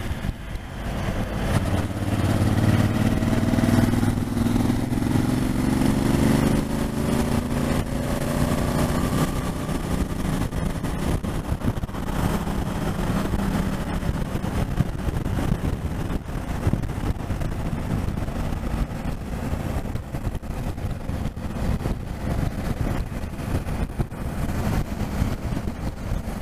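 Motorcycle engine pulling up through the revs over the first ten seconds or so, then cruising at a steady speed, with wind and road noise over the microphone.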